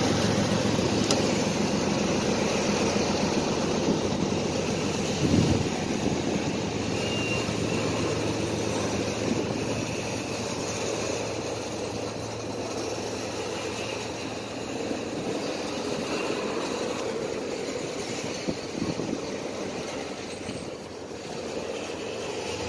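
Freight train tank cars rolling past, a steady rumble of steel wheels on the rails, with one brief thump about five seconds in.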